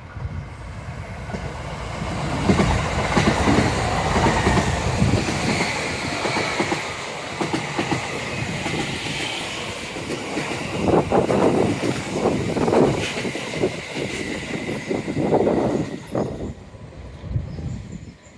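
Tobu Tojo Line electric commuter train passing by: its wheels clatter over the rails, the sound building about two seconds in and dying away near the end.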